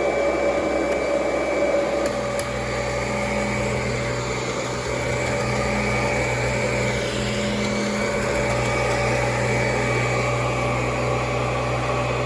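Kirby G4 upright vacuum cleaner running steadily, its motor hum deepening slightly about two seconds in.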